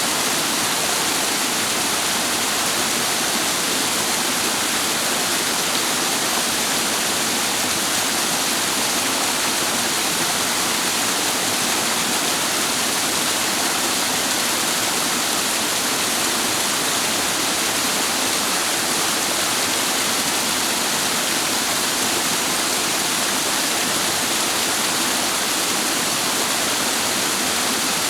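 Clear mountain stream water rushing steadily over rocks, a constant full splashing wash with no breaks.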